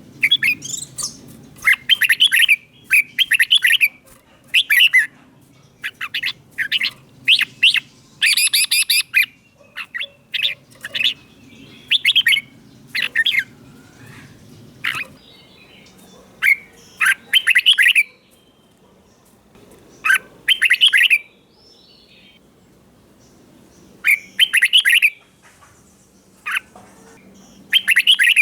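Red-whiskered bulbul singing: short, bright warbling phrases about a second long, repeated every second or two, with a pause of a few seconds about two-thirds of the way through.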